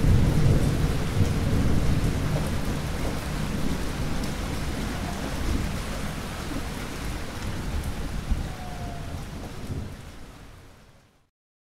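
Heavy rain with a low thunder rumble, slowly fading and then dying away to silence near the end.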